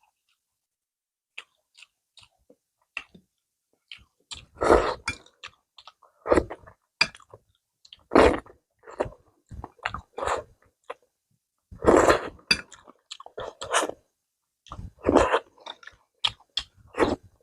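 Close-miked chewing of food: a few faint mouth clicks at first, then loud chewing bursts every second or two from about four seconds in, with quiet gaps between.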